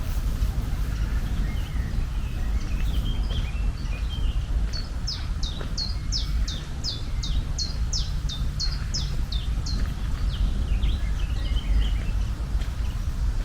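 A songbird calling a rapid series of short, high, downslurred chirps, about three a second for around four seconds mid-way, with scattered fainter chirps before and after, over a steady low outdoor rumble.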